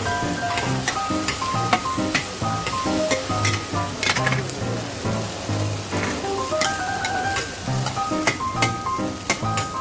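Fried radish cake and egg sizzling on a large flat iron wok, with a metal spatula clicking and scraping against the pan as portions are scooped onto a plate. Background music with a steady beat plays underneath.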